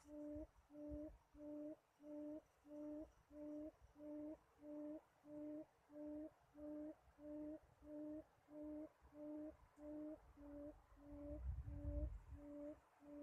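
Faint, low hooting note from a bird, repeated evenly about twice a second in a long steady series. A low rumble joins near the end.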